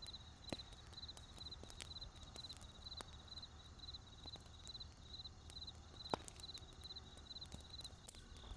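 Wood fire crackling faintly, with irregular sharp pops, the loudest about half a second and about six seconds in. A high chirp repeats steadily about three times a second behind it.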